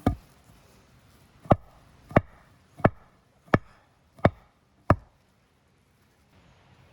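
Wood being chopped by hand: one dull thump, then six sharp, evenly paced strikes about two-thirds of a second apart, stopping about five seconds in.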